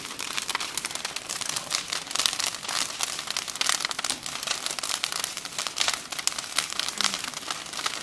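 Bonfire crackling: a dense, continuous run of sharp pops and snaps.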